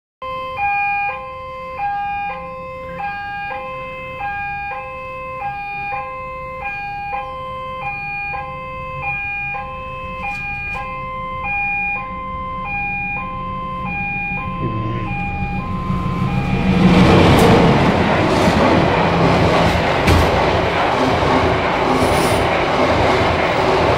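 A two-tone electronic warning signal alternates steadily between a high and a low note, over a low rumble, as a passenger train approaches. The warning fades under the train noise. About two-thirds of the way through, the locomotive-hauled train passes close by and gets louder, its coaches running with sharp wheel clacks over the rail joints.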